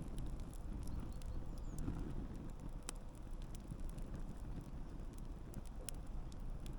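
Wood campfire burning with a low steady rumble of flames and irregular sharp crackles and pops of burning wood.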